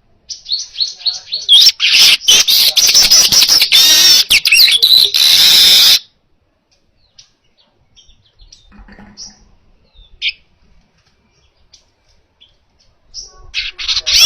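Manyar weaver bird singing: a run of quick chirps builds into a loud, dense, buzzing chatter that lasts about four seconds and cuts off suddenly. After that come scattered faint chirps, and a second loud burst of song near the end.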